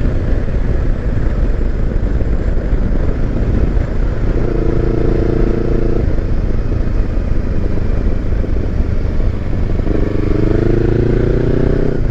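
Kawasaki Versys X300's parallel-twin engine running while being ridden, under a steady low rumble of wind and road noise. The engine note stands out twice, briefly about four seconds in and again near the end, where it rises a little as the bike picks up speed.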